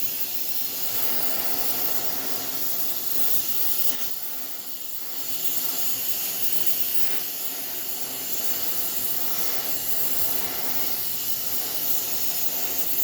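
Oxy-fuel heating torch flame hissing steadily and loudly as it heats steel red-hot, easing off briefly about four seconds in.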